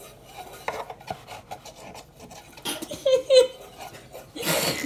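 Paintbrush scrubbing and scraping in short, rasping strokes on a wooden birdhouse, with light ticks and knocks. A loud breathy burst comes near the end.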